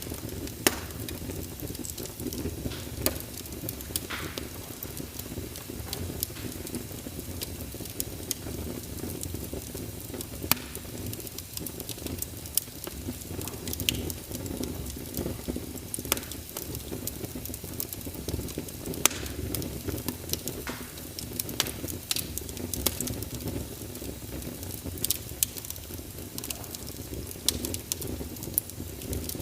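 Fireplace fire burning with a steady low rumble and irregular sharp crackles and pops of the wood.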